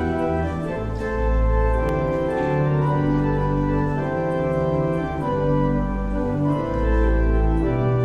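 Organ playing the closing hymn: sustained chords that change about every second over deep bass pedal notes.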